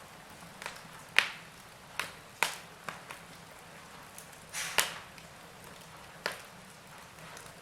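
Wood fire burning in a fireplace, crackling with sharp irregular pops and snaps over a low steady hiss.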